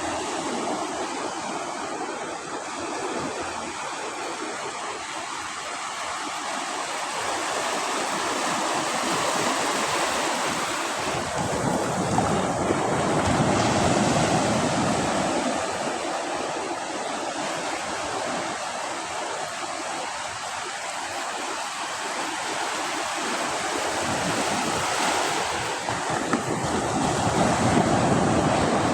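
Sea waves washing onto a beach: a steady rushing surf that swells as each wave comes in, loudest about halfway through and again near the end.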